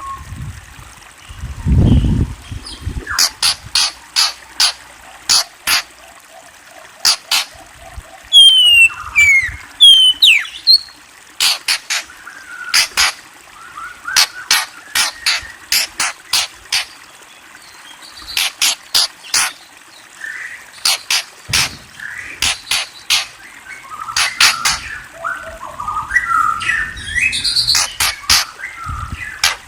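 Birds calling: a long series of short, sharp chirps, a few falling whistled notes about a third of the way in, and a warbling phrase near the end. There is also a low thump near the start.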